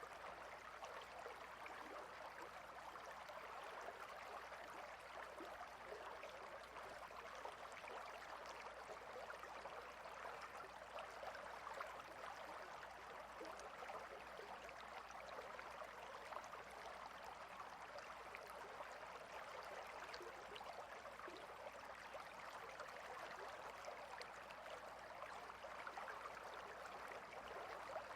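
Clear river flowing over and between rocks: a steady, quiet rush of water with faint small splashes.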